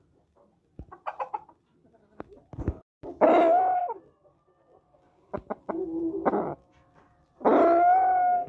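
Aseel chickens calling: a few short clucks, then two long pitched calls of about a second each, the second near the end, with a few sharp clicks between them.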